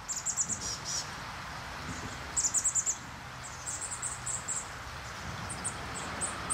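Bird chirping in short, quick runs of high notes, a new run every second or two, over a steady background hiss.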